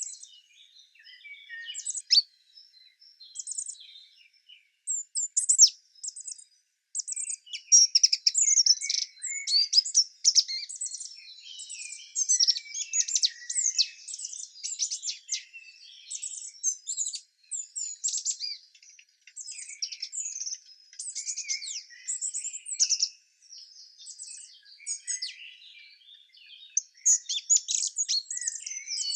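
Songbirds chirping and twittering, with many quick high calls overlapping; sparse at first, then a dense, busy chorus from a few seconds in.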